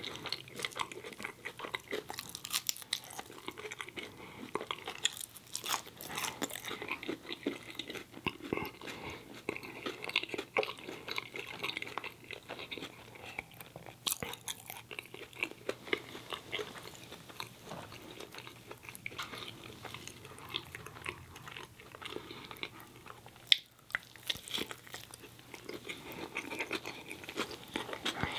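Close-miked chewing and biting: a fry and a bacon cheese dog in a soft bun worked in the mouth, with irregular wet clicks and crackles and one sharp, loud click about three quarters of the way through.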